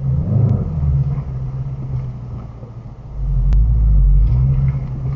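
2018 Shelby GT350 being driven, its engine and road noise making a heavy low rumble that swells about three seconds in. A single sharp click cuts through the rumble past the middle.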